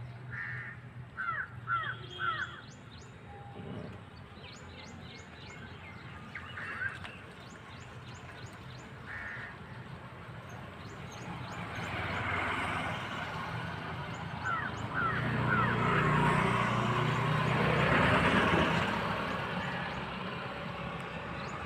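Birds calling outdoors in short clusters of quick calls. A broad rushing noise builds through the second half, loudest near the end.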